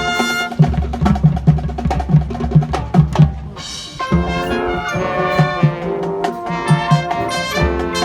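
High school marching band playing: brass chords over a steady drum beat, with a short break in the brass about three and a half seconds in before the full band comes back in.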